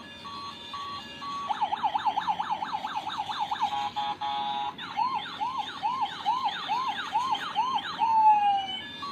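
Electronic toy siren cycling through its sound patterns: short repeated beeps, then a fast wail sweeping up and down about four times a second, a brief steady tone, slower whoops about twice a second, and a falling tone near the end before the beeps resume.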